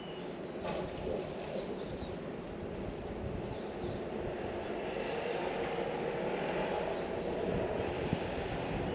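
Steady rumble of a passing vehicle that grows slowly louder, with a single sharp click less than a second in.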